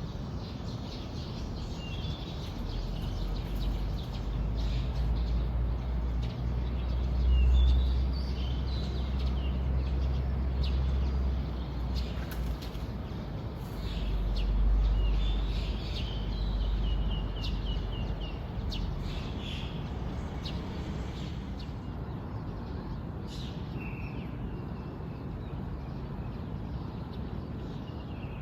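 Birds chirping and calling in short, scattered phrases, including a quick run of repeated notes, over a low rumble that swells twice in the first half.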